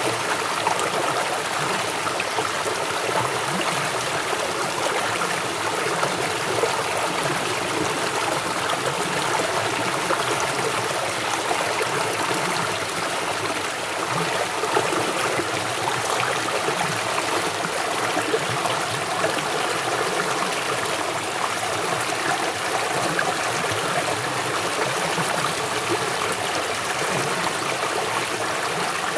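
River water flowing swiftly over its bed: a steady, unbroken rushing babble with no separate splashes or pauses.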